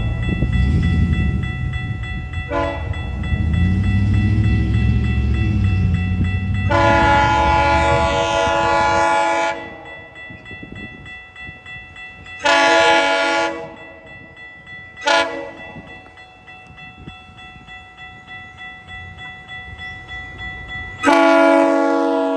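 GO Transit commuter train's multi-note air horn sounding a series of blasts for a level crossing: long blasts at the start and around eight seconds in, a shorter one after twelve seconds, a brief toot around fifteen seconds, and another long blast starting near the end. The heavy rumble of the passing train lies under the first ten seconds, then fades.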